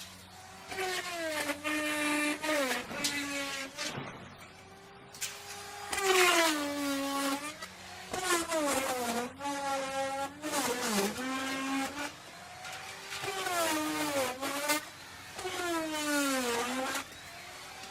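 Wood router cutting wood: the motor's whine sags in pitch as the bit bites and climbs back as it frees, over and over. About four to six seconds in it runs lighter at a steadier pitch.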